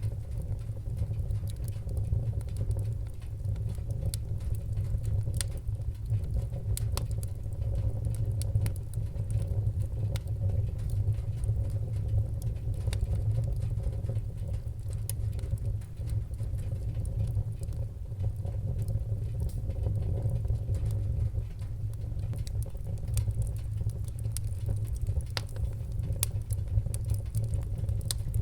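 Wood-burning fire crackling: scattered sharp pops and snaps over a steady low rumble of the flames.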